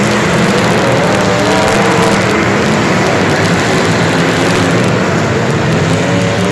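Loud, steady motor-vehicle engine noise, with engine pitch drifting up and down against a constant rushing noise.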